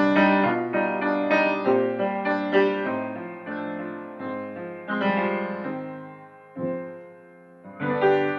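Piano accompaniment playing a slow pattern of struck chords and notes, each fading after it is struck, with a louder chord near the end.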